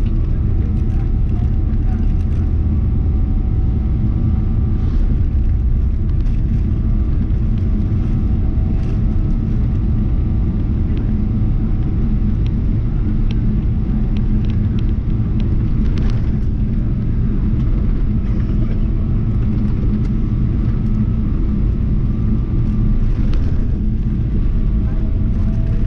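Steady low rumble of cabin noise aboard a Boeing 777-300ER, from its GE90 engines and the airflow, with faint steady whining tones and a few light clicks.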